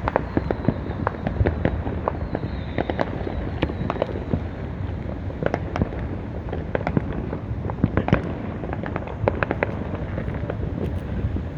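Fireworks going off, with many sharp bangs and crackles coming irregularly over a continuous low rumble of distant explosions.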